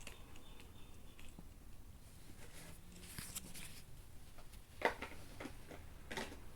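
Quiet handling noise from cards and small items being moved on a tabletop, with two light knocks about five and six seconds in.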